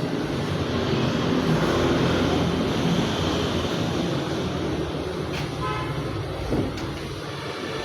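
Road traffic noise with running vehicle engines, and a horn sounding briefly about five and a half seconds in.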